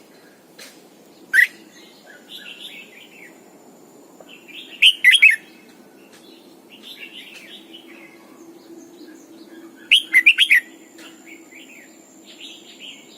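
Red-whiskered bulbul singing: three loud, quick warbled phrases roughly four to five seconds apart, with softer chattering notes between them.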